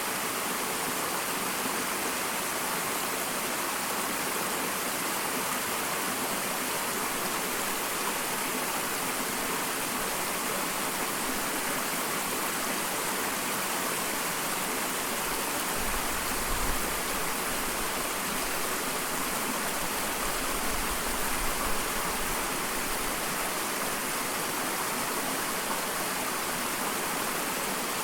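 Small waterfall splashing steadily, an even rushing hiss of falling water. A low rumble comes in about halfway through and fades out a few seconds later.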